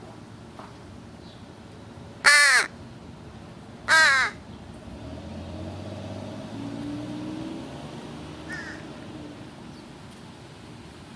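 American crow cawing twice, two loud harsh calls under half a second each, about a second and a half apart and falling slightly in pitch. A low hum follows from about five to eight seconds, with a faint short call near the end.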